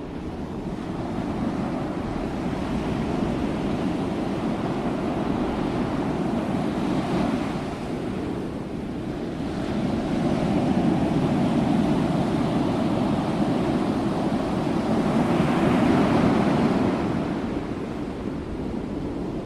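Ocean waves breaking and washing onto the shore in a continuous surf, swelling and easing as each set of waves rolls in, with the loudest surges in the second half.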